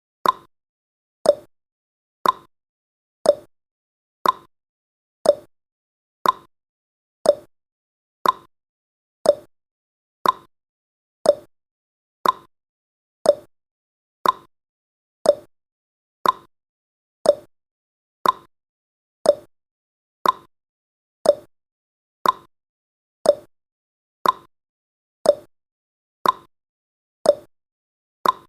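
Countdown timer's tick-tock sound effect, one short tick each second, alternating between a lower and a higher pitch.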